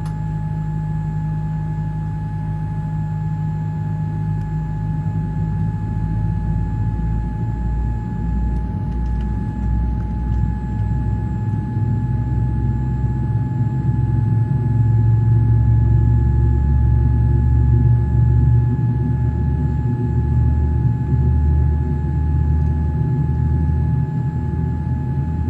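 Boeing 787-10 heard from inside the cabin during pushback and engine start: a low rumble under a steady, unwavering whine. The rumble grows louder about halfway through.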